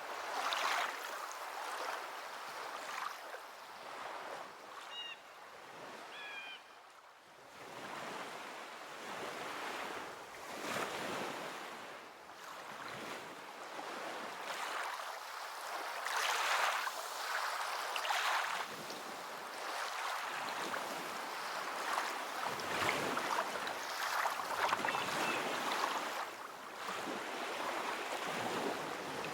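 Ocean surf breaking on a beach, the wash swelling and fading every few seconds. A few faint high chirps sound about five to seven seconds in.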